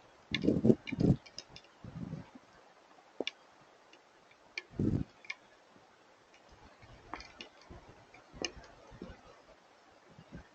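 Hailstones striking, an irregular scatter of sharp ticks with a few heavier thuds among them, the loudest about half a second, one second and five seconds in.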